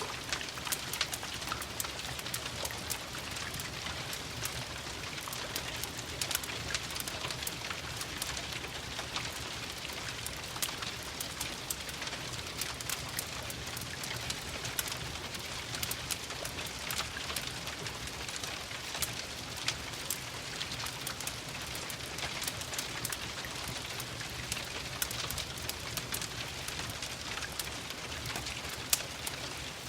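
Steady rain hiss dotted with frequent sharp ticks and crackles, mixed with a crackling wood fire.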